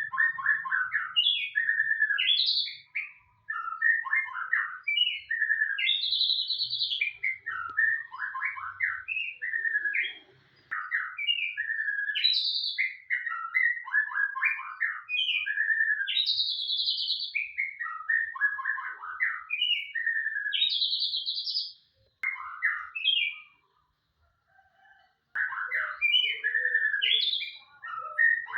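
White-rumped shama (murai batu) in full song: a long, varied run of rapid whistled and chattering phrases, with a few brief breaks and a longer pause about three quarters of the way through.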